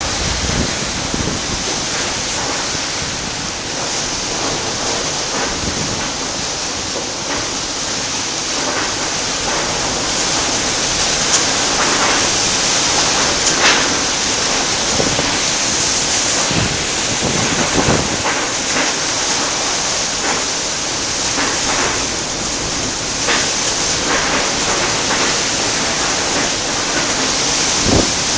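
Typhoon-force wind and driving rain lashing at a window: a loud, dense, steady rush with brief sharper hits now and then.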